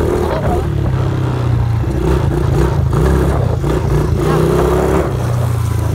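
Dirt bike engine running while riding, its note holding steady and then shifting up and down several times as the throttle is worked.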